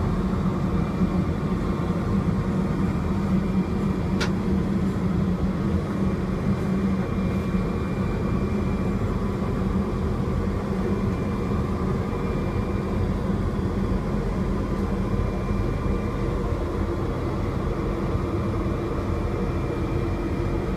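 Steady cabin noise of a Boeing 777-200ER in cruise: a constant drone of engines and airflow with a low hum. There is one short click about four seconds in.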